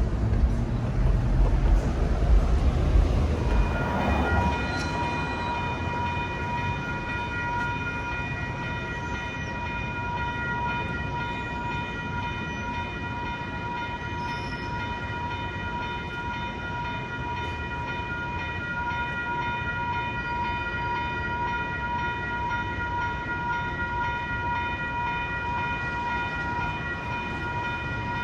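An MTS light-rail tram rumbling at a railroad crossing. About four seconds in, the heavy low rumble gives way to a steady, high multi-pitched tone that holds unchanged over the softer rumble of the tram.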